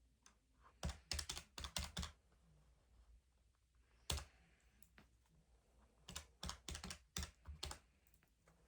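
Keys being pressed in short quick runs: a burst of about six presses, a single press a couple of seconds later, then about eight more presses near the end.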